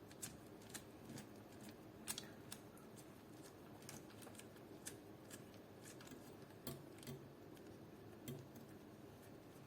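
Near silence broken by faint, irregular small clicks and taps of a hex key and metal screws being worked on an airsoft rifle's hop-up chamber.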